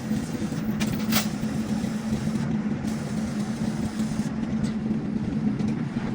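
Steady machine drone with a constant low hum, with two brief sharp noises about a second in.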